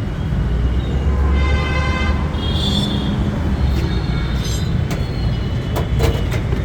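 Heavy mechanical rumble with a high-pitched squealing tone about a second in, and a few sharp clicks near the end.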